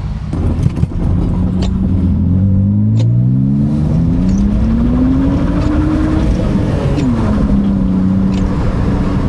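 BMW E46 328Ci's 2.8-litre straight-six accelerating, its pitch climbing steadily for several seconds, then dropping sharply about seven seconds in and holding steady.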